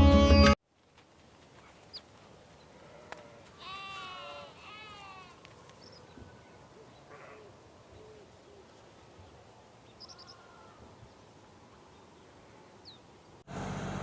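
Two short animal calls close together about four seconds in, each a rising then falling cry, over quiet outdoor ambience with a few faint high chirps later on. A snatch of sitar music cuts off just after the start.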